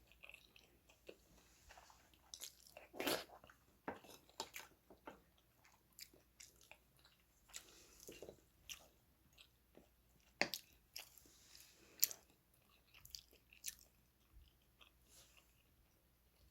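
A person eating: irregular chewing and biting sounds, with a few sharper clicks among them.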